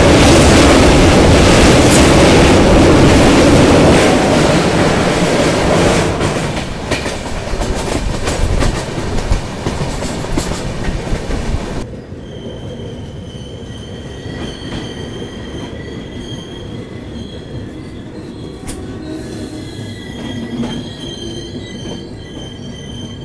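Express passenger train running on the track: a loud rushing of wheels on rail eases off, with a run of sharp clicks over the rail joints and points. About halfway it drops abruptly to a quieter, steady, high-pitched squeal of wheels on rail as the train slows into a station.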